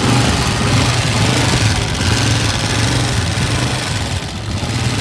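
Honda CG125's air-cooled single-cylinder four-stroke engine idling steadily. It is running with the noise problem that the mechanic sets out to cure by adjusting the tappet (valve) clearance.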